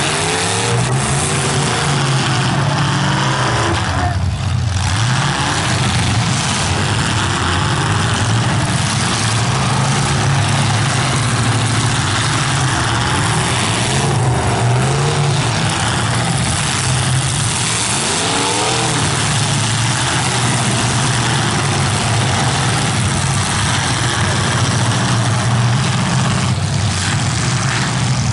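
Several demolition derby cars' engines running and revving hard, rising and falling again and again, with a few sharp impacts of cars ramming each other.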